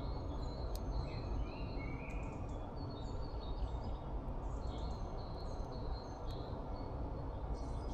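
Birds chirping in short, scattered calls, faint over a steady low rumble of background noise.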